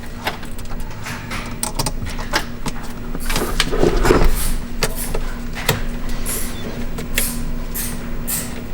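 Hands working battery cables and terminal hardware: scattered metallic clicks and knocks, with a louder scraping and rustling stretch about four seconds in, over a steady low hum.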